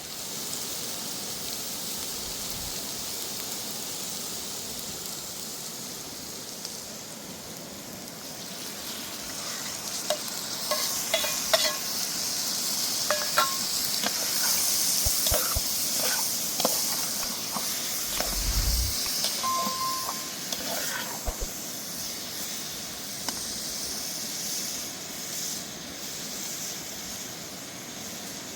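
Food sizzling as it fries in a pan, with a steady hiss that grows louder partway through. Scattered clicks and knocks of stirring run through the louder stretch.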